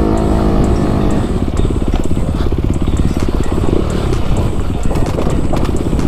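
Dirt bike engine revving, its pitch swinging up and down, then from about a second in dropping to a lower, steadily pulsing run.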